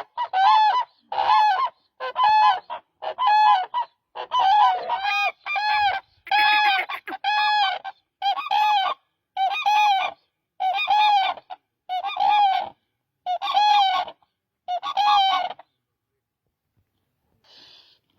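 Demoiselle crane (koonj) calling: a series of loud honking calls, about one a second, each rising and falling slightly in pitch, which stop a few seconds before the end.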